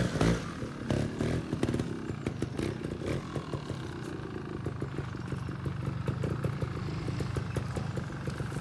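Trials motorcycle engine running at low revs, with a short loud burst of throttle right at the start, then a steady, fast, even firing beat.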